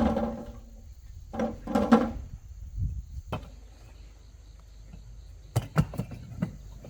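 Steady high insect chirring, typical of crickets, under the whole stretch, with a short spoken call near the start and a few sharp knocks about two-thirds of the way through.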